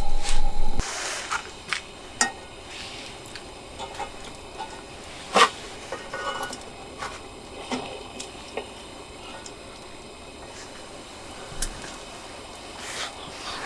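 Scattered light clinks and knocks of camp cookware and utensils being handled, the sharpest knock about five seconds in. A loud steady hum with a low rumble cuts off abruptly within the first second.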